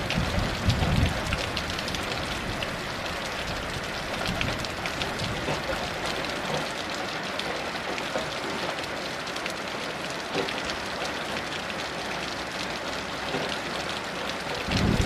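Heavy rain falling steadily, a dense patter of drops. A low rumble of distant thunder fades out in the first second, and another begins right at the end.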